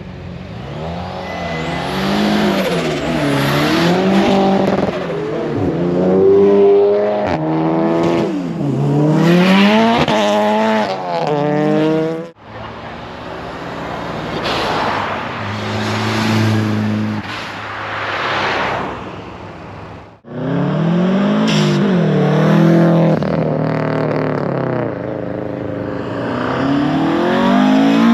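Classic cars driving off one after another, their engines revving up and easing off over and over as they accelerate away. The sound breaks off abruptly twice.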